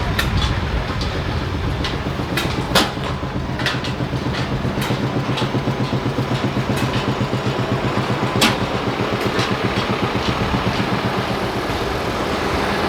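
An engine running with a steady, fast, even chug, with sharp clicks or knocks now and then.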